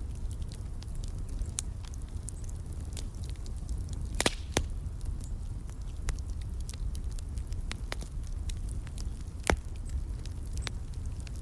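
Wood fire in a fireplace crackling, with irregular sharp snaps over a low steady rumble. Louder pops come about four seconds in and again near nine and a half seconds.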